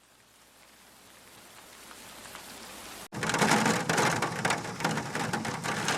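Rain falling, fading in from silence and growing slowly. About three seconds in it jumps abruptly to much louder, heavier rain with dense pattering.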